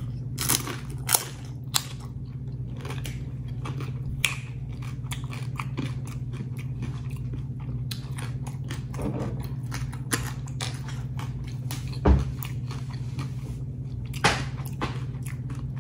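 Crisp fried tortilla chips being bitten and chewed close to the microphone: a long run of short crunches, a few of them sharper and louder. A steady low hum sits underneath.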